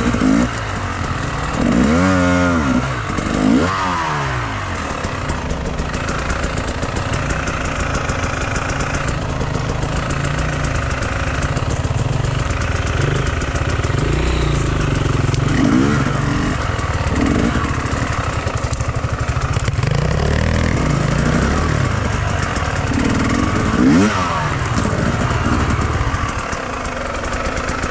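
Enduro motorcycle engine running under load, revving up and down with the throttle: several quick rising and falling revs in the first few seconds and again about sixteen and twenty-four seconds in. Near the end it settles to a lower, steadier note.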